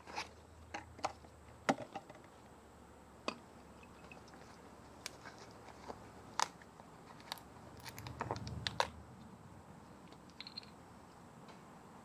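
Scattered light clicks and taps from plastic oil bottles and caps being handled during the oil fill, with a brief low rumble about eight seconds in.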